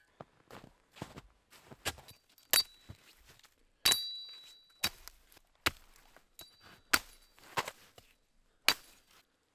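Wood being chopped with an axe or hatchet: about ten separate strikes, irregularly spaced about a second apart. A few blows leave a short high metallic ring.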